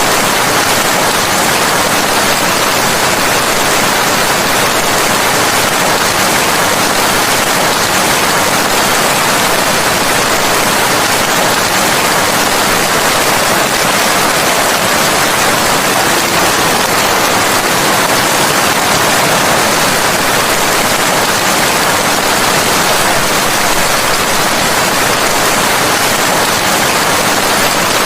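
Steady rain, a dense even hiss with no thunder and no single drops or splashes standing out.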